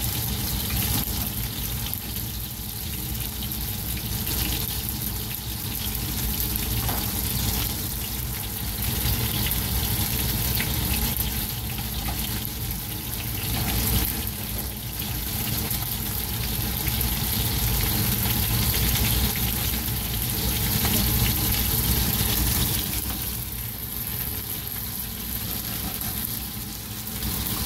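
Steady sizzling from breadcrumbed fish fillets shallow-frying in oil and rice stir-frying in a second pan.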